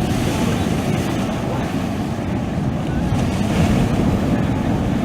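Sea waves washing steadily on the shore, with wind buffeting the microphone.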